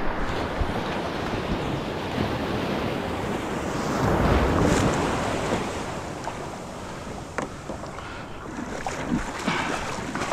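Ocean waves breaking on the beach, one swelling louder about four seconds in, with wind buffeting the microphone.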